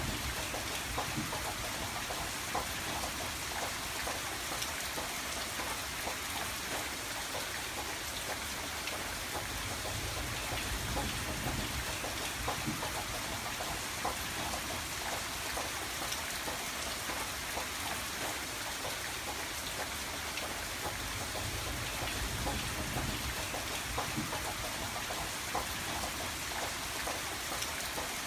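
Steady rain, with many small drops tapping on window glass.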